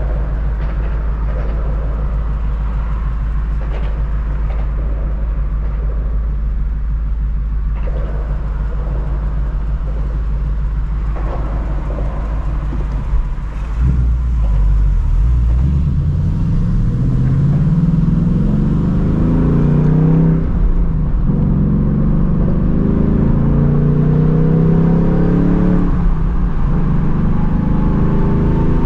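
2024 Ford Mustang GT's 5.0-litre V8 with the stock active exhaust, cruising at a steady low drone. About halfway through it pulls harder: the exhaust note rises in pitch and grows louder in several climbs, with short breaks between them as the manual gearbox is shifted.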